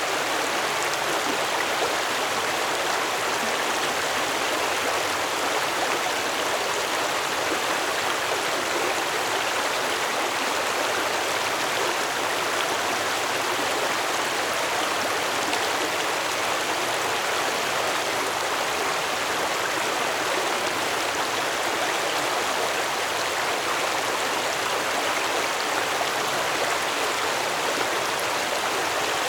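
Stream water flowing steadily over rocks, a continuous, even rushing and burbling.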